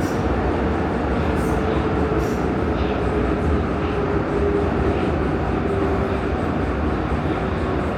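Prague metro line A train (Siemens M1 stock) running between stations in the tunnel: a steady, loud rumble and rush of the wheels on the rails, with a faint held tone underneath.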